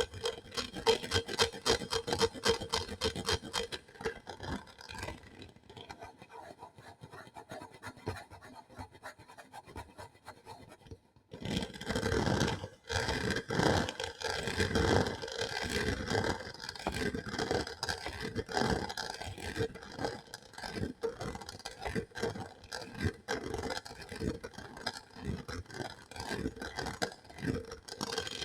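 Close-miked ASMR trigger sounds: rapid, continuous scratching and scraping on an object. The sound is quieter for several seconds, drops out briefly near the middle, then returns louder.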